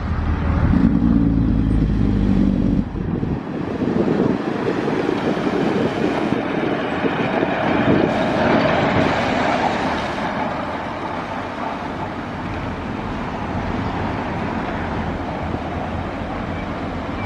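Classic ERF lorry's diesel engine, noisy, running as the lorry drives past, loudest in the first half and easing off over the last several seconds.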